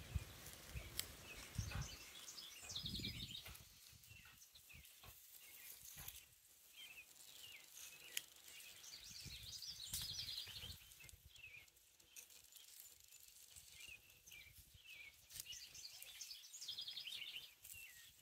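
Faint outdoor ambience of small birds chirping, with a few quick trills repeating now and then. There are low rumbles in the first few seconds.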